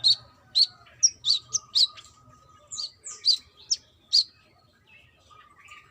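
Brown-throated sunbird calling: a quick series of about a dozen sharp, high chirps, some sliding down in pitch, that stops a little over four seconds in.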